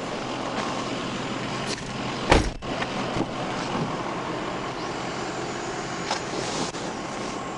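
Steady vehicle and road noise with one loud thump a little over two seconds in and a few fainter clicks.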